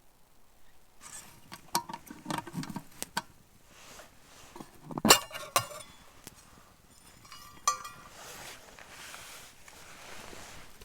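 Clinks and knocks of metal camp cookware being handled: a quick cluster of small clinks, then two loud knocks about five seconds in, and a last clink near eight seconds that rings briefly.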